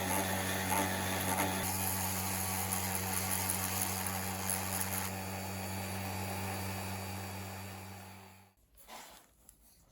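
An electric power tool running steadily with a low motor hum and a hiss of grinding or sanding, stopping about eight and a half seconds in.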